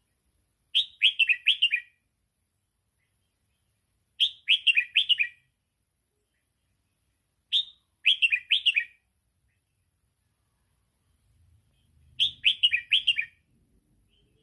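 Red-whiskered bulbul singing four short phrases, a few seconds apart, each a quick run of several whistled notes.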